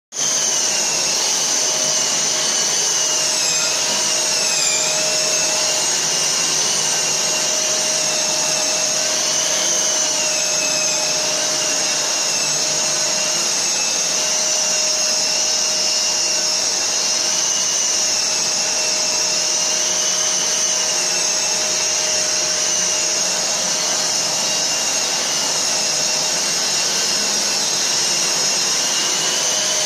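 Sturm DWS 6016 wall and ceiling sander running together with a Bosch GAS 35 L SFC+ dust extractor: a steady loud motor and suction noise with a high whine whose pitch dips slightly now and then.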